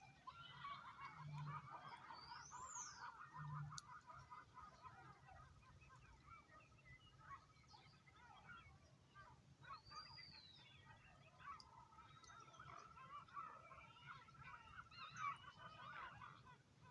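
Flock of geese honking and chattering, many overlapping calls at once, faint, with a couple of higher whistling calls above them.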